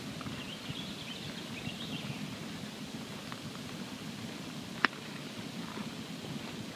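Wood campfire burning: a steady low rush of flame with scattered small crackles, and one sharp, loud pop about five seconds in.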